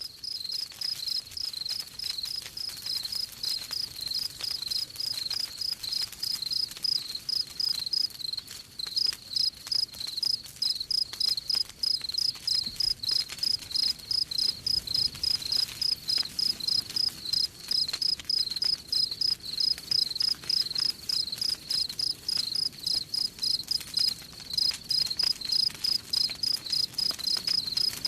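Crickets chirping in a steady rapid rhythm of about four high chirps a second, with a brief pause about eight seconds in, over faint crackling of a wood fire.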